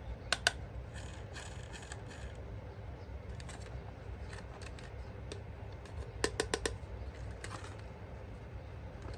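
Sharp clicks and light handling noises over a low steady hum: two clicks close together near the start, a brief scrape, then a quick run of four or five clicks about six seconds in.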